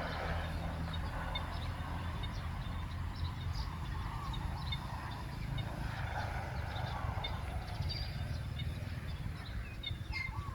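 Outdoor ambience of scattered short bird chirps over a steady low rumble.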